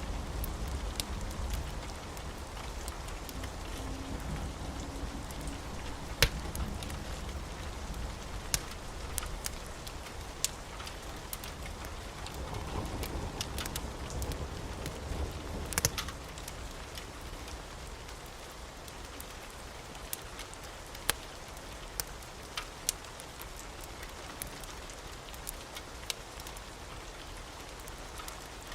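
Wood fire burning in a fireplace: a steady low rumble and hiss with sharp, irregular crackles and pops.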